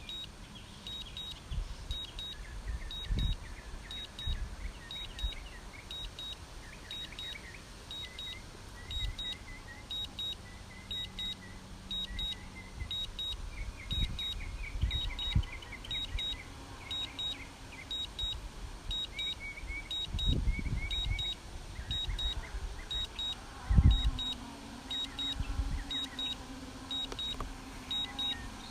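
A DJI flight app on the Phantom 4's controller beeping a short high double beep about once a second, the alert that sounds while Return to Home is active. Low thumps come through now and then, the loudest about 24 seconds in.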